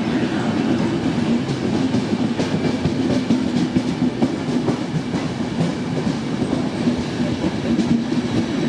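Train rolling through the station, its wheels clicking over the rail joints over a steady low hum.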